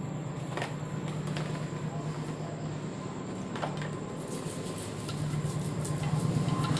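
Hand-cleaning of a motorcycle crankcase: a few sharp knocks of tool on metal, then from about five seconds in dense, rapid scrubbing strokes that grow louder, over a steady low hum.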